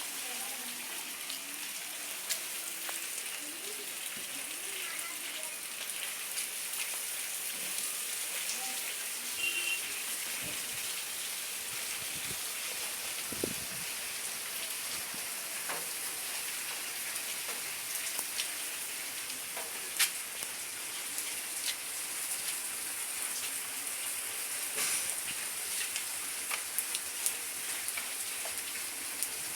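Steady rain falling, with a constant hiss and many sharp drip ticks of drops striking surfaces close by.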